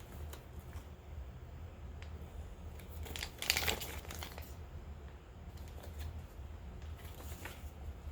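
Packaging being handled during an unboxing: light crinkling and rustling with small clicks, and a louder burst of crinkling or tearing about halfway through.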